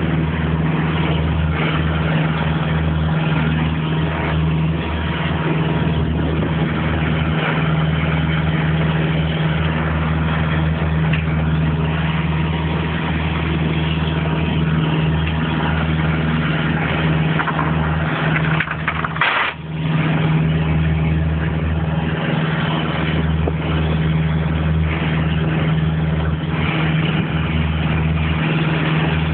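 Creel fishing boat's engine running steadily with a deep hum, with one brief break about two-thirds of the way through.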